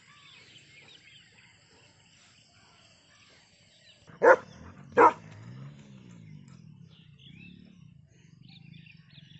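German shepherd dog barking twice in quick succession, two loud sharp barks less than a second apart, followed by a low wavering sound.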